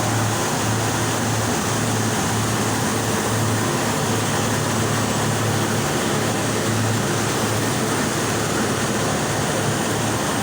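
6-ton combi boiler running under test, a steady rushing noise over a low hum that never lets up.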